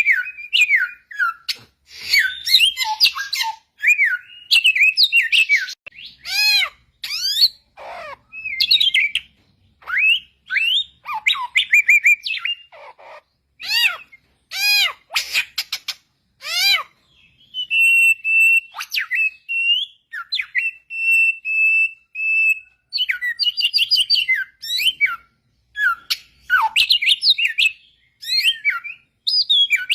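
Samyong (helmeted friarbird) singing loudly in varied whistled phrases of sweeping, arching notes, broken by short pauses, with a run of repeated, steadier notes about halfway through.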